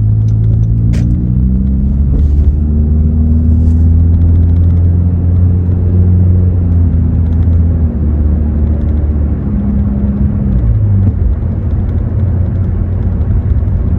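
Muffler-deleted exhaust of a 2017 Honda Accord LX's 2.4-litre four-cylinder, heard from inside the cabin while driving: a deep, steady drone. Its pitch shifts a few times and falls about eleven seconds in as the car slows toward a stop.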